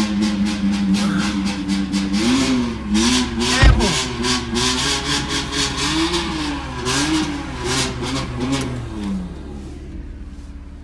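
Performance car engine held at steady revs, then revved up and down over and over, with sharp pops and one loud bang about four seconds in. The revving dies away near the end.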